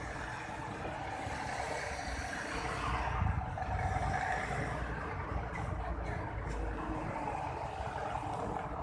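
Steady street noise with a motor vehicle running past over a low rumble, a little louder about three seconds in.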